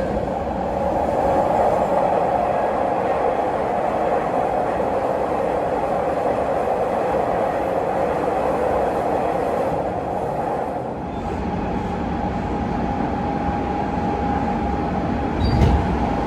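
Hanshin 9000 series electric train running, heard from inside the car: Mitsubishi GTO-VVVF inverter and traction motor sound over wheel and rail noise. About eleven seconds in the sound dips and a steady tone is left. There is a short thump near the end.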